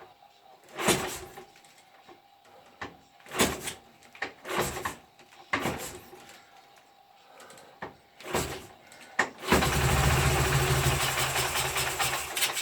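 K750M motorcycle's 750 cc flat-twin engine being kick-started: several short separate bursts as it is kicked over, then about two-thirds of the way in it catches and runs steadily for about three seconds before cutting out. After 26 years standing, the engine fires but will not keep running.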